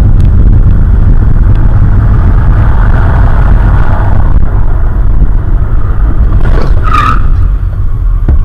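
Dash camera's recording of a car on the road: a loud, steady rumble of road and engine noise, with a brief high-pitched squeal about seven seconds in.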